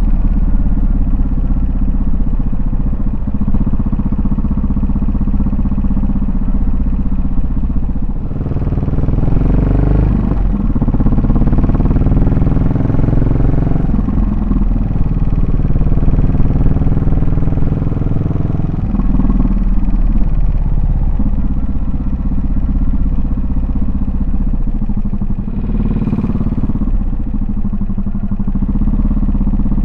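Yamaha SR400's single-cylinder four-stroke engine and exhaust running under way, with the revs rising as it accelerates about a quarter of the way in and again past halfway.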